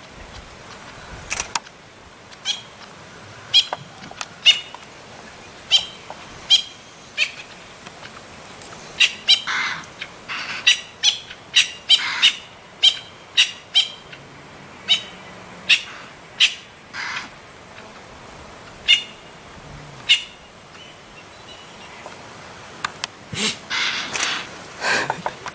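Birds calling: a long series of short, sharp, high calls over a faint background hiss. The calls come thickest about a third of the way in and again near the end, after a short lull.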